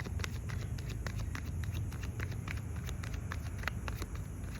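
Steady low rumble of wind buffeting the microphone, with irregular sharp clicks and crackles, several a second.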